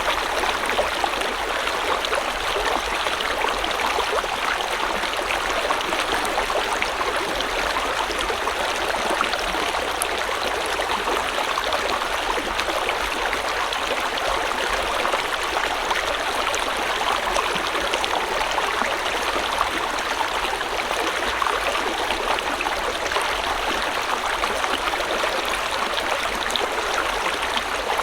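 River water flowing steadily over rocks, a continuous rushing with fine splashes and gurgles.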